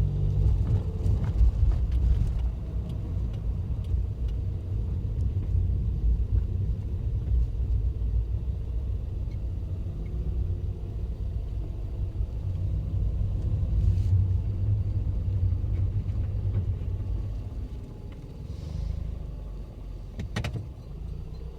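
Cabin sound of a Toyota Funcargo's 2NZ-FE 1.3-litre four-cylinder engine, heard from the footwell: a deep, steady rumble of engine and car. It eases off near the end, and a sharp click comes shortly before the end.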